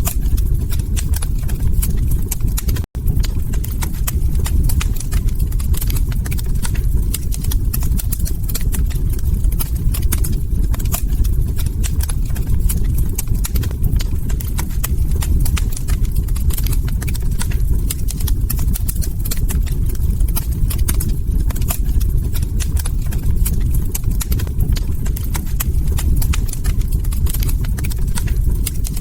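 Log fire crackling in a fireplace: dense, irregular sharp pops and snaps over a steady low rumble, with a split-second dropout about three seconds in.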